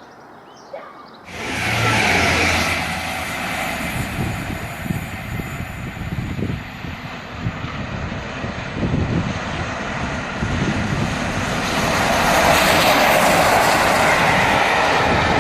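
A steam-hauled express, LNER A1 Pacific 4-6-2 'Tornado' with a 13-coach train, passing at speed. It bursts in suddenly about a second and a half in, with a steady rush of the coaches going by that grows louder again near the end.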